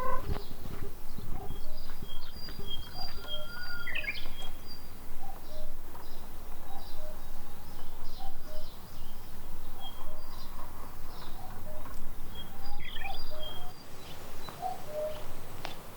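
Small birds chirping, many short high calls scattered throughout, over a run of lower, evenly repeated short notes from about a third of the way in and a steady background hiss.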